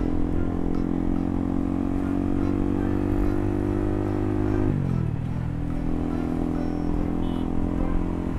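Motorcycle engine running under way, its note slowly rising as it accelerates, then dropping sharply about halfway through before holding steady again.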